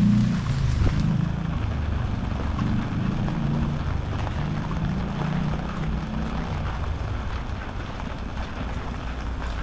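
Steady hiss of rain, with a low rumble that swells and fades several times.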